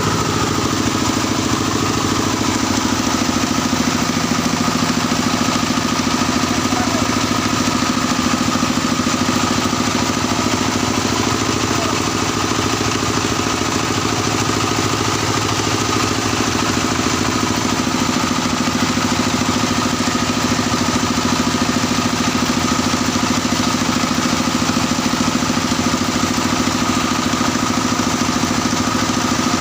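Engine of a small well-drilling rig running steadily.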